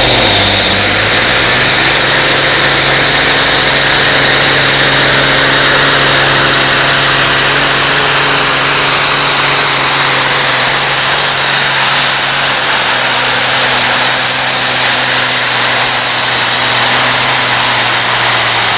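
Competition pulling tractor's engine running flat out at steady high revs, with a constant high-pitched whine over the engine note.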